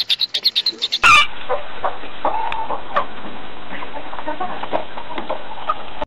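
The end of a cuckoo dove's call, rapid pulsing, cut off about a second in by a different bird recording: one loud call right at the cut, then several short calls over a steady hiss.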